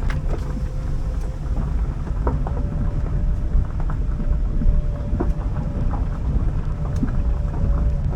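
Strong gale wind heard through an open car door, buffeting the microphone in a deep, continuous rumble, with scattered small ticks and a faint steady hum underneath.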